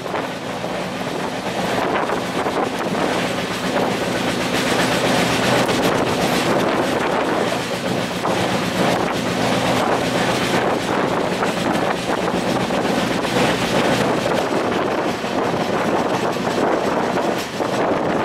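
Passenger train running at speed, heard from on board: a steady rush of wheel-on-rail and wind noise with some clatter from the wheels, and a faint low hum under it for about the first ten seconds.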